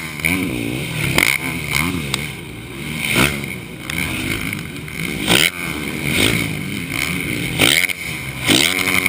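Motocross bike engine revving hard, its pitch climbing and then dropping again roughly once a second as the throttle is worked and chopped.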